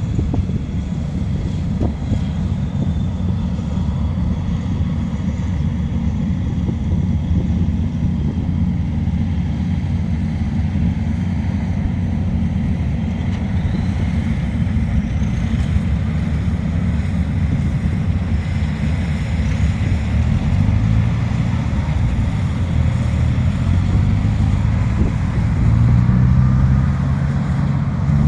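An engine runs steadily under heavy wind noise on the microphone. About twenty seconds in, a pitched engine hum comes in and grows louder near the end.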